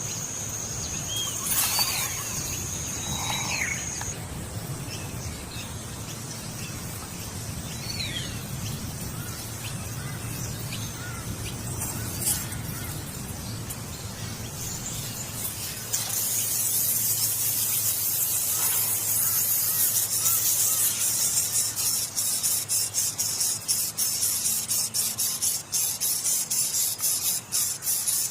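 Outdoor nature sounds: a steady high insect trill that stops about four seconds in, and a few short bird chirps. From about sixteen seconds a loud, high rasping hiss starts and pulses several times a second.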